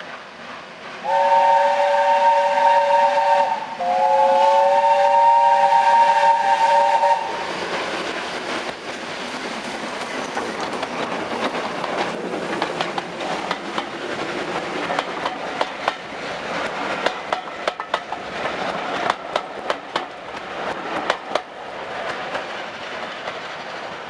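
Steam locomotive whistle sounding two long, steady blasts, the second a little longer, followed by the train running past with a steady rumble. Towards the end the wheels click sharply over the rail joints.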